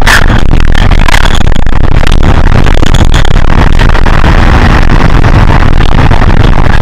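Hino HS8JRVL city bus heard from inside the cabin while driving: steady engine and road noise, heaviest in the low end.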